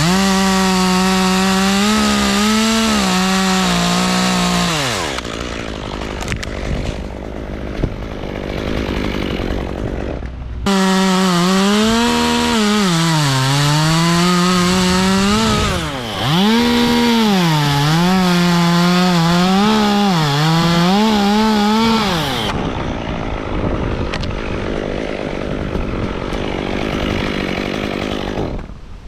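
Two-stroke chainsaw cutting wood at full throttle, its high engine note sagging as the chain loads up in the cut and climbing back again, several times over. It runs in two spells, the first about five seconds, the second about twelve seconds, with a lower, rougher running sound between them and after.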